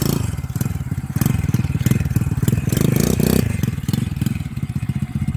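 Small petrol engine of a radio-controlled quad bike running and revving up and down as it drives, with some clatter from the bike.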